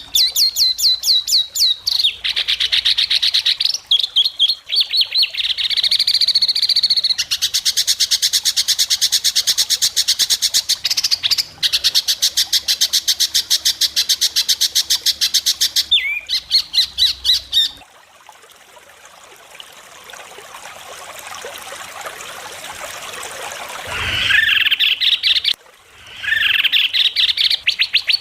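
White-rumped shama (murai batu) singing in long runs of rapid, sharp rasping trills. The song breaks off for several seconds about two-thirds of the way through and then starts again.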